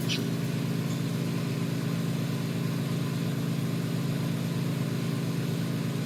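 Steady mechanical hum, an even low drone that doesn't change, with a brief high click right at the start.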